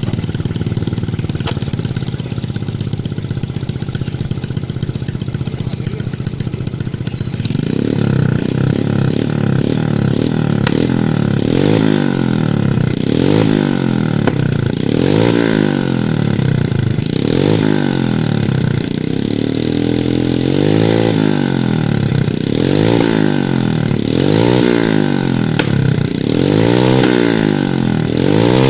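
Yamaha Jupiter Z motorcycle's single-cylinder four-stroke engine running through a modified exhaust, idling steadily and then, from about seven seconds in, revved in repeated quick blips about every two seconds. Sharp pops from the exhaust come through the blips: backfiring in the exhaust.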